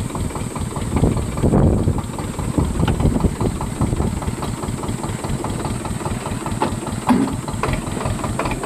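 Swaraj 724 tractor's diesel engine running at idle, a steady rapid firing beat.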